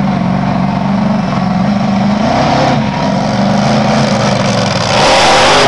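Monster truck engine running and revving, its pitch rising and falling, with a louder surge of noise near the end.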